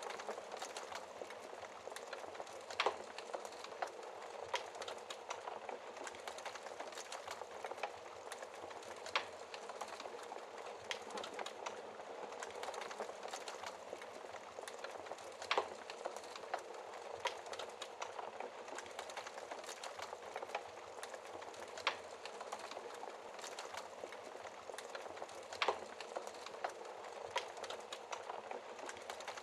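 Wood fire in a fireplace crackling steadily over a soft hiss of flames, with a handful of louder pops from the burning logs, spaced several seconds apart.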